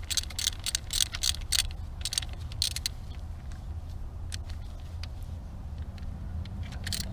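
A wrench loosening the valve rocker arm adjusters on a seized Simca 1100 engine: a string of irregular metallic clicks and clinks, busiest in the first three seconds, over a low steady hum.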